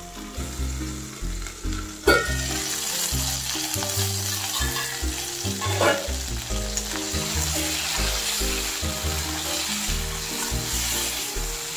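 Whole green chillies, garlic cloves and tomatoes sizzling in a little oil in a steel kadhai. About two seconds in, the lid comes off with a sharp clank and the sizzle grows louder and brighter. A spatula then stirs and scrapes the pan.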